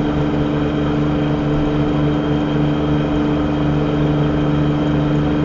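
Steady drone of a car driving, heard from inside the cabin: engine hum and road noise at a constant pitch and level.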